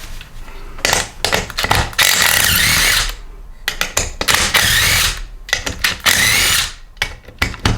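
Cordless power drill/driver with a 3/8 socket spinning out the crankcase (oil pan) bolts of a small Briggs & Stratton lawn mower engine, running in several separate bursts with a wavering motor whine and short clicks of the socket between them.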